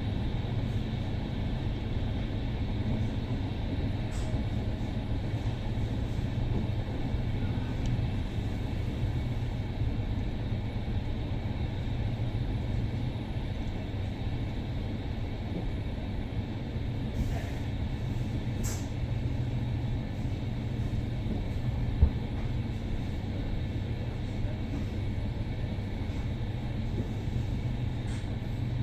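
Double-decker sleeper train running, heard from inside the carriage as a steady low rumble. A few faint clicks come through, with one sharp knock about 22 seconds in.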